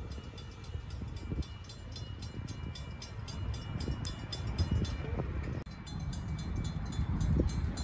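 Low, steady rumble of a train out of sight, with a fast regular ticking high up. The sound breaks off abruptly about five and a half seconds in, where the recording cuts, then the rumble and ticking resume.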